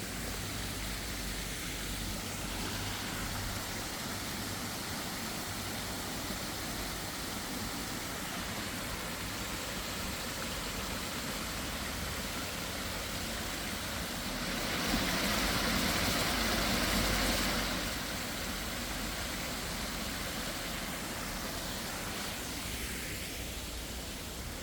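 Steady outdoor hiss, with a car passing by about fifteen seconds in: its noise swells for a few seconds and then fades.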